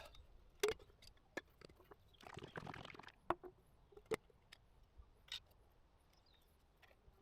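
Scattered light knocks and clicks with a short brushing, scraping rustle about two seconds in: hand work with brush and paint tin while painting a plywood boat hull.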